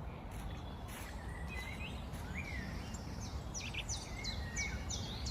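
Songbirds calling over a steady low rumble of background noise: a few lower gliding whistles in the first half, then from about three seconds in one bird repeating a short high downward-slurred note about twice a second.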